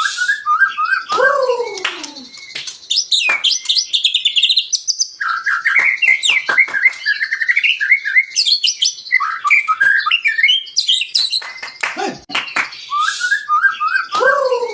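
White-rumped shama (murai batu) singing a varied song of rich whistled phrases, fast trills and sharp clicking notes. A whistled phrase ending in a long falling slur comes near the start and again at the end.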